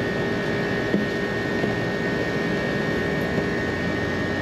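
Rooftop air-conditioning units running: a steady drone of condenser fans and compressor with a constant hum tone through it, and a light tick about a second in.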